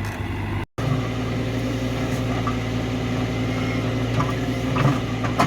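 Backhoe's diesel engine running steadily. The sound cuts out for a moment under a second in, and a couple of sharp clanks come near the end.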